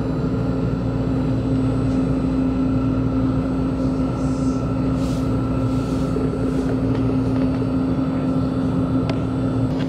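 Running noise inside a moving electric S-Bahn train: a steady rumble from the wheels and track, with a constant low hum and a fainter high tone that stops near the end.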